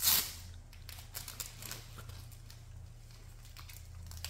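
Handling rustle of a fabric dog knee brace and its straps, opening with a short sharp rasp, then light scattered rustling and scraping.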